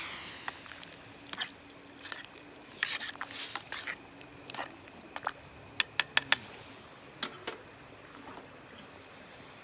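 Irregular clicks, light knocks and short scrapes of objects being handled, with three sharp clicks in quick succession about six seconds in.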